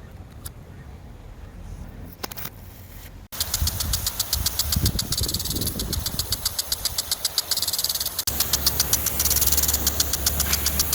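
An engine running steadily with a fast, even knocking beat, cutting in suddenly about three seconds in after a quiet stretch with a few faint clicks.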